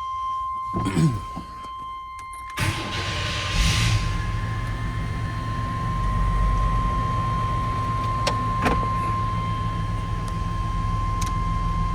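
The 4.3-litre V6 of a 1995 Chevrolet 1500 pickup cranks over about two and a half seconds in, catches a second later and settles into a steady idle.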